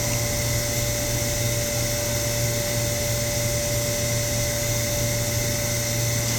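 Steady hum and rush of a New York City subway train, with a constant low drone and a steady whine held at one pitch, as heard from inside or beside the train.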